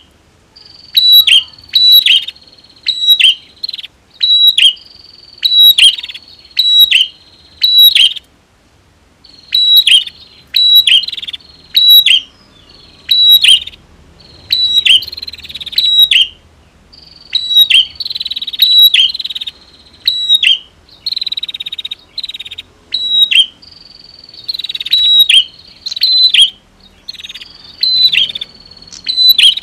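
Prinias (prenjak) calling loudly and repeatedly. Each call is a quick, sharp clicking note over a high buzzy tone, given about once a second in long runs with short breaks.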